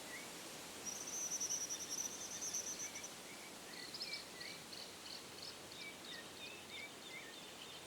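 Faint nature ambience: small birds give short chirps again and again, and a fast, high trill runs for about two seconds starting about a second in, all over a soft hiss.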